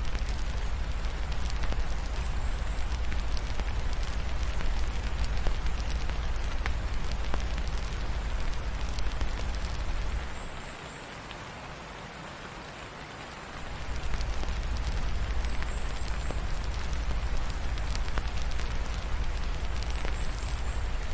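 Steady rain hissing and pattering, mixed with a fireplace's scattered crackles and a low rumble. The low rumble drops away for about three seconds halfway through, then returns.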